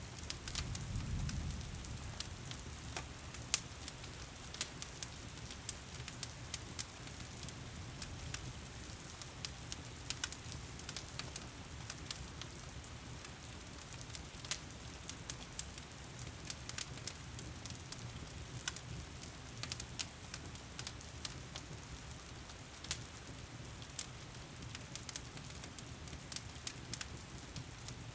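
Crackling wood fire, with sharp pops scattered irregularly throughout, over the steady hiss of heavy rain. A brief low rumble comes about a second in.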